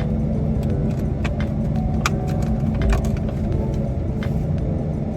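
Steady low rumble of a car heard from inside the cabin, with scattered light clicks and rattles of small objects being handled.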